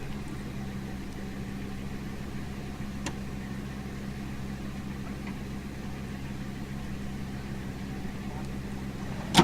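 A car engine idling steadily, with a faint click about three seconds in and a sharp knock right at the end.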